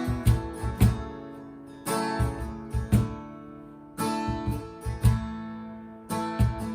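Acoustic guitar strumming the instrumental lead-in to a worship song. A repeating pattern: a ringing chord about every two seconds, followed by a few short, sharp strums with low thumps.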